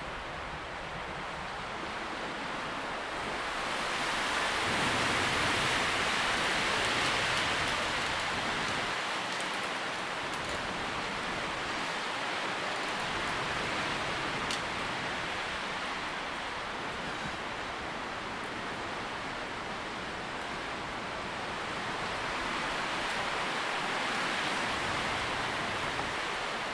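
Wind rustling through tree leaves as a steady hiss, swelling louder in gusts about five seconds in and again near the end.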